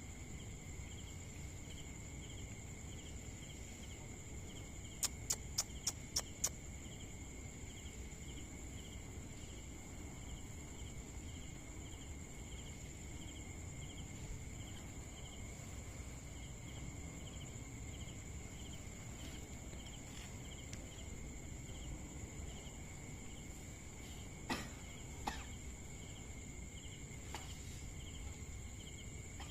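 Insects chirping steadily with a rhythmic pulse about twice a second over a high continuous trill. About five seconds in there is a quick run of six sharp clicks, and two more clicks come near the end.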